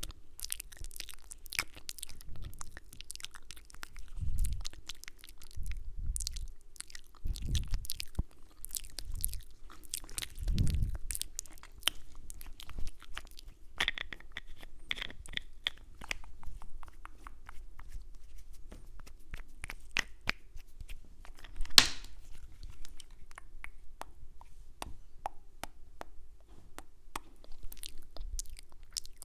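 Close-miked ASMR mouth sounds: a dense, irregular stream of wet mouth clicks and kisses, with a few soft low thumps in the first half and one louder click around two-thirds of the way in.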